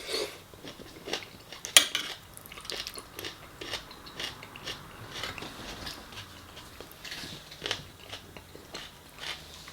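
A person eating close to the microphone: biting and chewing food, with crunches and many short clicks and crackles, the sharpest about two seconds in.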